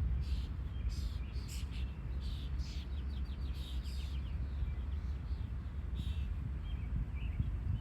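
Small birds chirping and calling, with several short high notes and a quick trill of repeated notes about three seconds in, over a steady low rumble.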